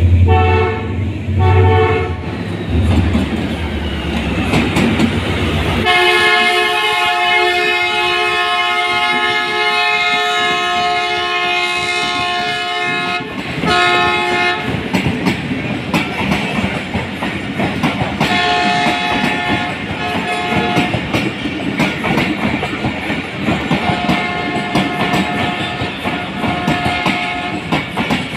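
A Pakistan Railways passenger train arrives, its locomotive's multi-tone horn sounding two short blasts at the start, then one long blast of about seven seconds and another short blast. A deep locomotive rumble is heard over the first few seconds, then the coaches roll past with wheels clattering over the rail joints. Fainter, higher tones come and go later.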